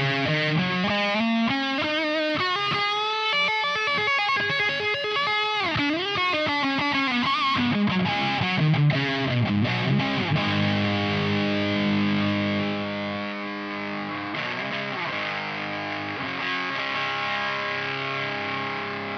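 Distorted electric guitar through an Ibanez Metal Charger distortion pedal, playing a single-note lead line with string bends and vibrato, then striking a chord about ten seconds in that rings on and slowly fades.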